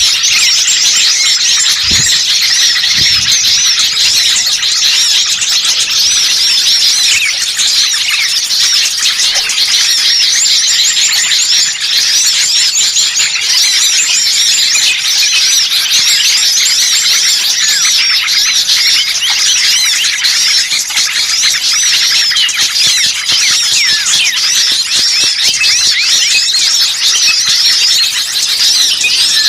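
A dense chorus of many small songbirds chirping and twittering at once, loud and unbroken, with rapid overlapping high calls. This is a bird-lure recording of noisy small birds, used to draw wild birds in.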